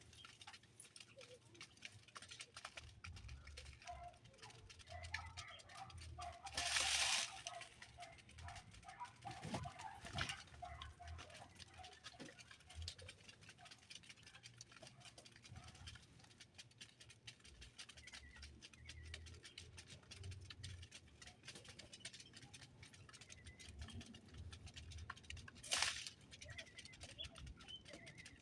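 Birds calling faintly among scattered light clicks and pattering, with a brief louder rustling burst about seven seconds in and a sharp click near the end.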